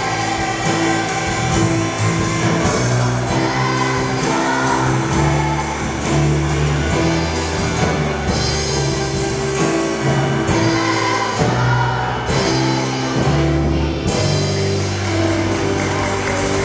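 Children's Sunday school choir singing a praise hymn with instrumental accompaniment and a steady, held bass line.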